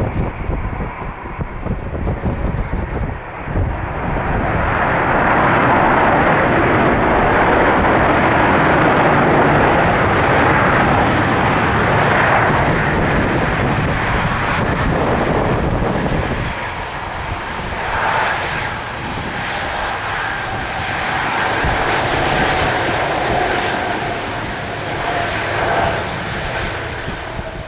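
Jet engines of a landing Royal Air Force Airbus A330 MRTT (Rolls-Royce Trent 700 turbofans): a loud engine rush that builds about four seconds in, holds for some ten seconds, then eases off, with a thin steady whine through the latter part.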